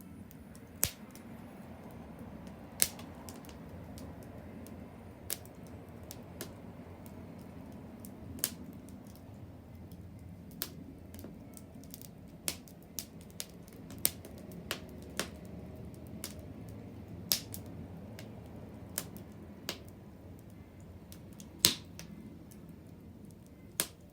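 Wood bonfire crackling: irregular sharp pops and snaps over a low steady rush of burning, with the loudest pop a little past three-quarters of the way through.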